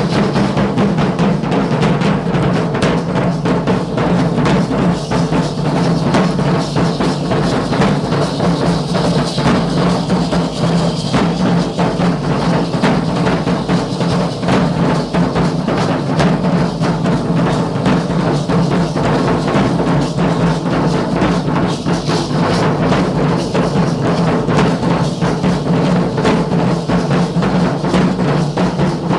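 Drums of a Guadalupana danza troupe beating a loud, steady, unbroken rhythm of dense strikes.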